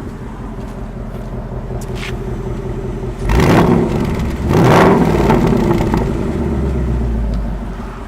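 2018 Ford Mustang GT's 5.0-litre V8 idling with the active exhaust in normal mode, then revved twice in quick succession about three seconds in before settling back to idle near the end.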